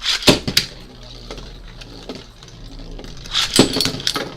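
Metal Fight Beyblade tops Flame Cancer and Dark Wolf spinning in a stadium and clashing, with sharp clacks of collisions in the first half second and again a little before the end, over a steady spinning whir.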